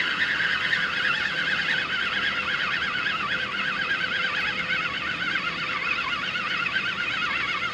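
Fishing reel being wound in: a whine that wavers up and down about five times a second.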